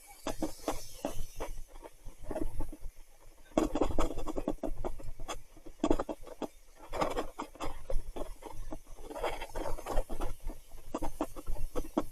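Irregular clattering, crackling and spattering from a mountain bike being ridden over rough, muddy ground in heavy rain.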